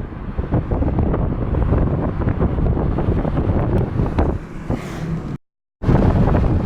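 Typhoon wind gusting hard and buffeting the microphone in a continuous low rumble with irregular blasts. The sound drops out completely for a moment near the end, then resumes.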